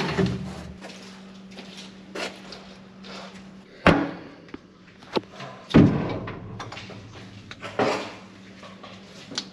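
A handful of separate knocks and clunks, with the loudest two about four seconds in and just before six seconds, over a steady low hum.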